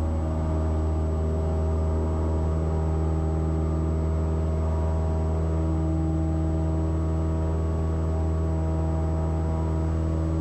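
Cessna 172 Skyhawk's four-cylinder Lycoming engine running at full power in the climb just after takeoff: a steady, even drone that holds one pitch.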